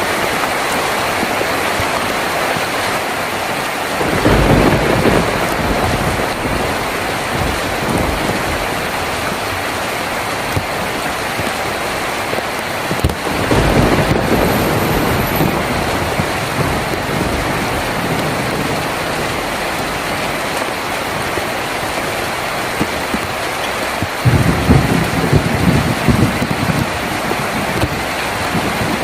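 Heavy rain drumming steadily on a tin roof, with thunder rumbling three times: about four seconds in, near the middle, and a few seconds before the end.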